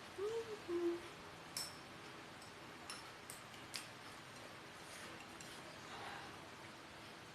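Eating sounds: a few light, sharp clicks and clinks of utensils against tableware, with a brief hum near the start.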